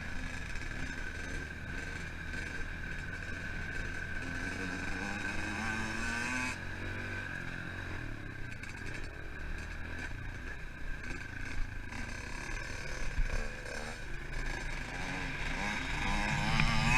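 Pit bike engine running and revving. Its pitch climbs for a couple of seconds, drops off sharply about six and a half seconds in, then climbs again near the end.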